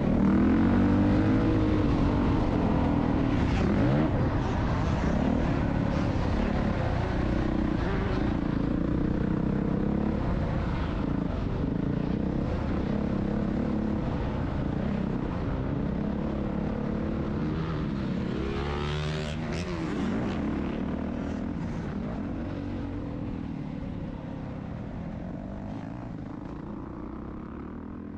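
Motocross dirt bike engines running, the sound slowly getting quieter. About two-thirds of the way through, an engine note sweeps up and back down.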